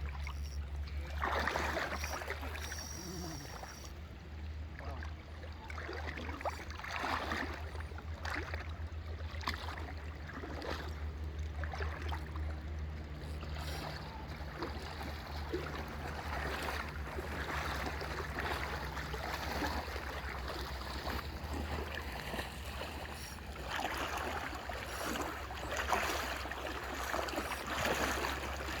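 River water rushing, with irregular louder swells and splashes, over a steady low rumble.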